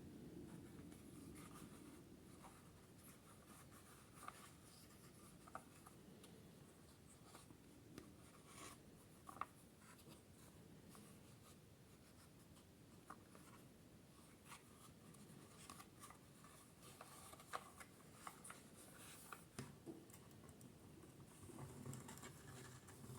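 Near silence: faint scratching with scattered light clicks.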